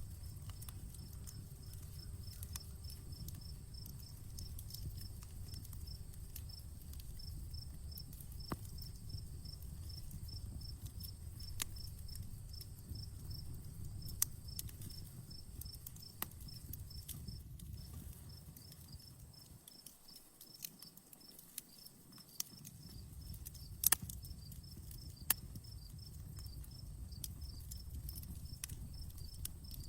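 Outdoor wood campfire crackling, with scattered sharp pops over a low rumble, one of the loudest pops late on. Crickets chirp in a steady, regular rhythm behind it.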